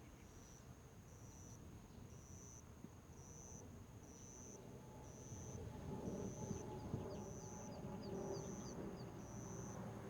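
Faint, evenly repeated high-pitched chirping, about one and a half chirps a second, typical of a cricket or other singing insect, with a quick run of shorter chirps past the middle. A low rumble grows louder from about halfway through.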